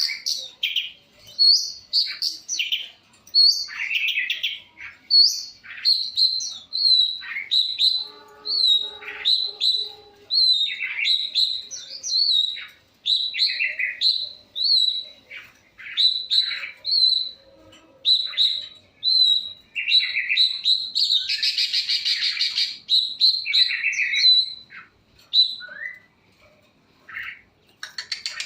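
Young long-tailed shrike singing busily: a quick run of short, high chirps and varied notes, with one harsh, scratchy burst lasting about two seconds near three-quarters of the way through.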